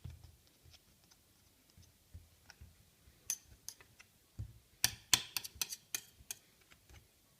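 Irregular sharp clicks and light taps of small hard objects being handled, sparse at first and coming thick and fast in the second half, with a few dull low bumps.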